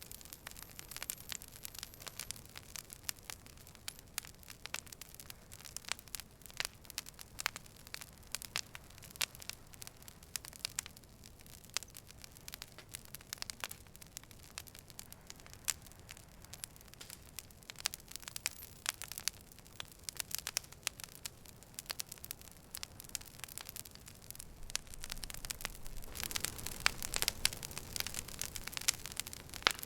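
Campfire crackling, with many sharp pops over a low hiss. The hiss and crackle swell louder for a few seconds near the end.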